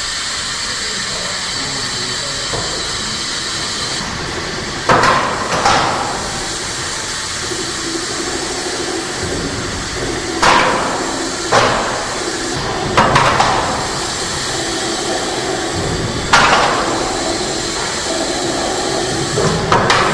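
A string of sharp, loud knocks, about eight at irregular intervals, each dying away briefly, over a steady hiss of running machinery.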